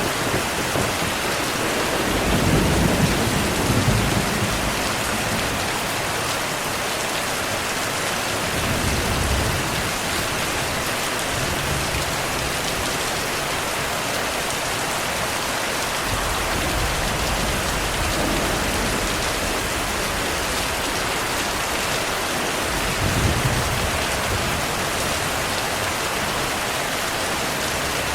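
Steady rain with low rumbles of thunder several times, the loudest a few seconds in and another near the end.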